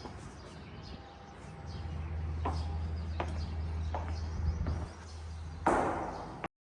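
Outdoor ambience: a steady low rumble with short, sharp chirps every second or so. Near the end comes a brief, louder rush of noise, and then the sound cuts off suddenly.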